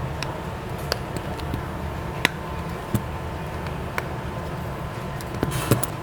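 Small repair tools clicking and tapping on a workbench: about six sharp, separate clicks over a steady low background hum.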